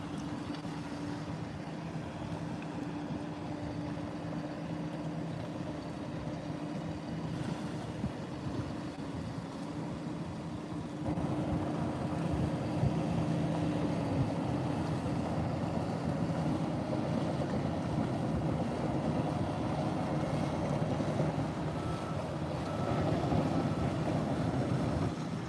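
Boat engine droning steadily offshore, getting louder about eleven seconds in.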